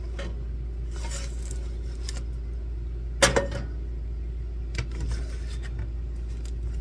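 Kitchenware clattering: one sharp clatter about three seconds in and a couple of lighter knocks a second and a half later, over a steady low hum.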